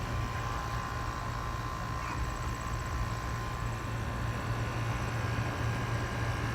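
Haier window air conditioner's Rechi compressor running with a steady low hum over a constant airy noise, sounding as it usually does.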